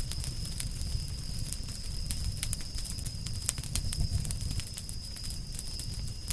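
Campfire of burning firewood crackling, with frequent sharp irregular pops over a low steady rumble of the flames. A faint steady high whine runs underneath.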